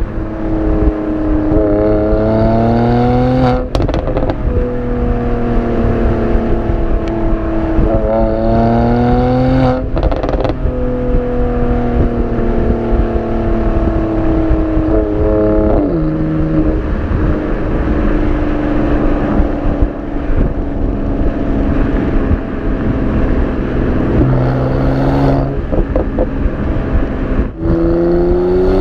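Mercedes-AMG C43's 3.0-litre biturbo V6 exhaust under way. The engine note climbs in pitch as it accelerates, with brief breaks where it changes up, then holds a steadier, slowly falling drone through a long stretch, and climbs again near the end.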